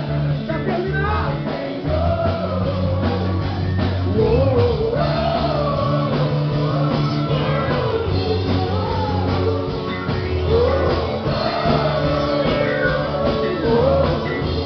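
Rock-style Christian worship song with singing over drums, bass and guitar.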